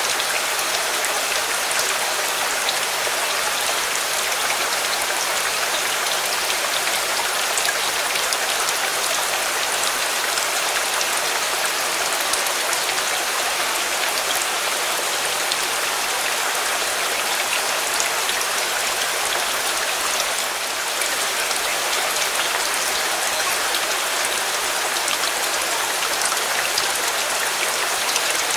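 Steady rain falling on a surface: a dense, even hiss with scattered sharp drop ticks, dipping slightly in level for a moment about 20 seconds in.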